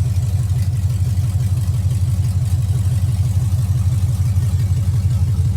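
Truck engine running with a steady low rumble and a fast, even pulse.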